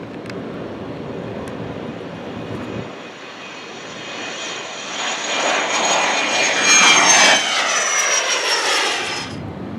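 Jet airplane passing close by, its engine noise building and then its whine falling in pitch as it goes past; the sound cuts off suddenly near the end.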